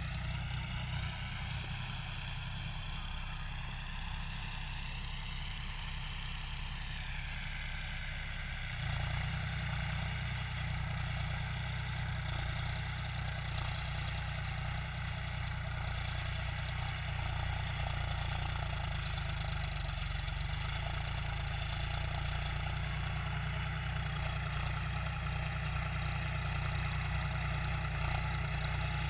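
John Deere tractor's diesel engine running steadily, growing louder about nine seconds in and holding there, with a short click about a second in.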